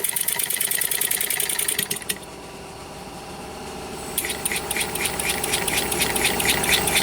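Four-stroke petrol engine converted to run on compressed air, running fast with a rapid string of exhaust air blasts. The puffing cuts off suddenly about two seconds in, leaving a quieter steady hum, then starts again about two seconds later and builds up.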